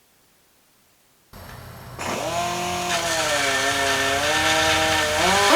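Power grinder grinding an aluminium bracket. It starts about a second in and whines loudly; the motor's pitch sags under load through the middle and climbs back up near the end as the load comes off.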